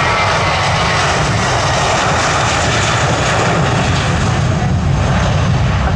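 Jet aircraft engines running, a loud steady rush of engine noise.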